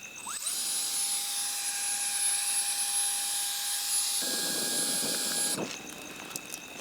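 Portable battery-powered blender motor spinning up with a quick rising whine, running at a steady high pitch, and cutting off suddenly after about five seconds. About four seconds in the sound turns rougher. The battery still drives it a month after its last charge.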